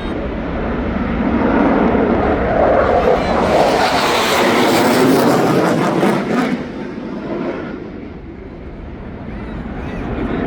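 Military fighter jet flying past overhead: a loud jet roar that swells, peaks for a few seconds with a hissing edge, then falls away sharply about six and a half seconds in.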